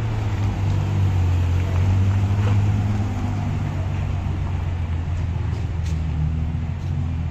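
Car engine running steadily at low revs, a continuous low hum with no revving.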